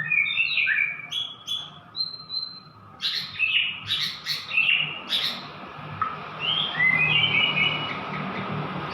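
White-rumped shama (murai batu) singing: a varied run of whistled phrases, quick pitch sweeps, chirps and sharp clicking notes, with a low steady hum underneath.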